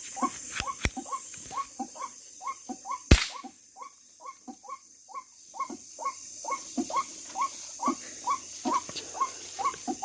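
White-breasted waterhen (ruak-ruak) calls repeating steadily, about three short calls a second. About three seconds in, a single sharp air-rifle shot is the loudest sound, and the calls carry on after it.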